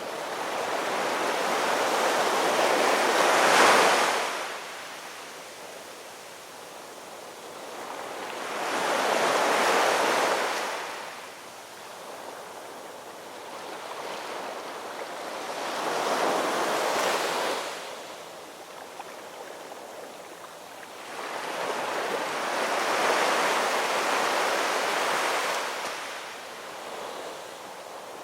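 Ocean surf: four waves wash in about six seconds apart, each swelling to a hiss and falling away. The first is the loudest and drops off sharply.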